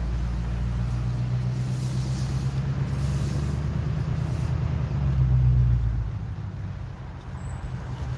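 Steady low engine rumble, growing louder about five seconds in and easing off after six seconds.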